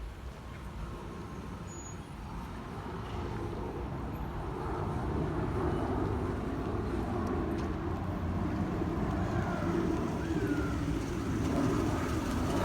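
Boeing C-17A Globemaster III's four Pratt & Whitney F117 turbofans making a broad, steady jet rumble that grows gradually louder as the transport comes in to land.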